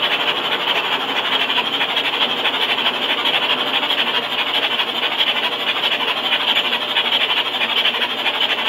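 Rebuilt 1967 Chevrolet 427 big-block V8 with tri-power carburetion and solid lifters (435 hp L71) running steadily during its run-in test. The sound holds even and unchanging throughout.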